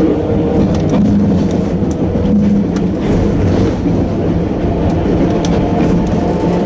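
Narrow-gauge electric train running, its nose-suspended traction motors giving a steady whine over a continuous rumble, with scattered clicks from the wheels on the track.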